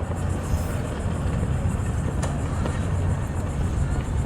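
Steady low engine rumble with outdoor background noise, typical of a boat or tow vehicle idling.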